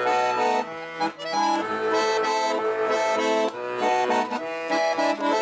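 Accordion playing a melody over held chords: the instrumental introduction to a song.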